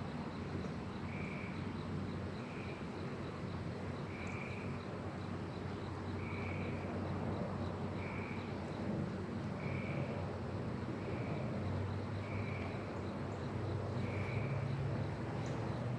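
Honeybees buzzing around an open hive, a steady low hum that rises a little in pitch near the end, with a short high call repeating every second or two.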